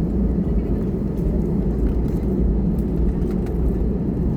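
Steady low rumble of a jet airliner's engines and airflow heard inside the passenger cabin, with a few faint rattles.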